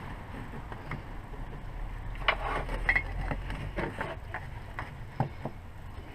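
Scattered sharp metallic clicks and knocks of hand tools working on a car's front wheel hub as the wheel bearing is pushed out, with three louder knocks, two in the middle and one near the end, over a low steady hum.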